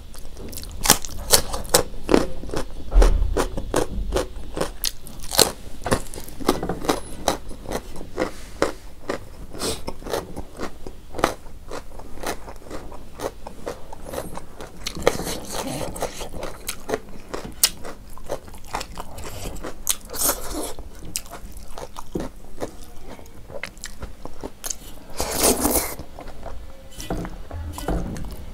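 Close-up chewing with many crisp crunches, from bites of raw carrot and radish slices, mixed with fingers scraping rice across a metal plate.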